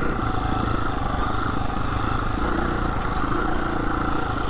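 Husqvarna 350 FE dirt bike's single-cylinder four-stroke engine running steadily.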